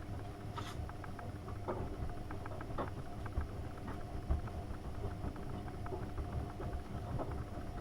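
AEG Öko-Lavamat 72520 front-loading washing machine running a wash cycle: steady motor hum as the drum turns, with irregular sloshing and soft knocks from the water and laundry tumbling inside.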